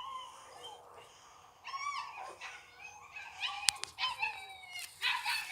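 Chocolate Labrador retriever puppies whining and yipping in short, high-pitched calls that slide up and down, several overlapping in the second half. A sharp click about two-thirds of the way through.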